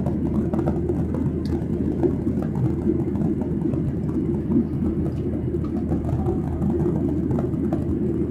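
Steady in-flight cabin noise of a Boeing 737-800: an even, low roar from the engines and the airflow over the fuselage.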